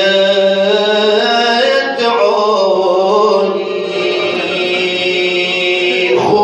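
A man's voice chanting a long, drawn-out note of an Arabic mourning lament (na'i), the pitch held and slowly bending, with a short break about two seconds in.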